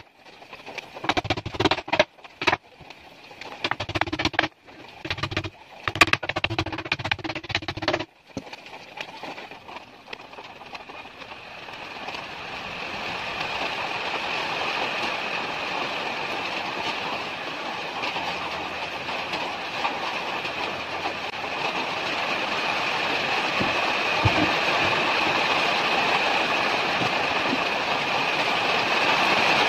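Irregular wooden knocks and taps for the first several seconds. Then a power tool running with a steady hiss that builds up over a few seconds and holds.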